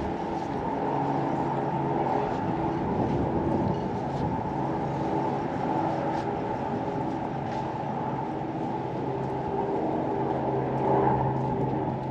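A steady engine-like rumble with a low hum, briefly a little louder near the end.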